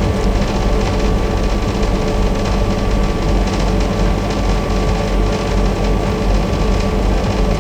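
Steady mechanical whir with a faint hum, unchanging throughout.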